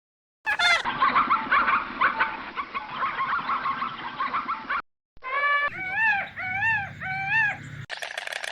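Domestic fowl calling: about four seconds of a flock's dense clucking and squawking, then, after a brief break, four separate calls in a row, each rising and falling in pitch. A different, buzzier sound begins near the end.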